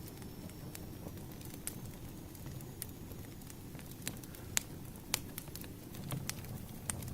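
Wood fire crackling: a low steady rumble of burning logs with scattered sharp pops. The loudest pops come a little past halfway.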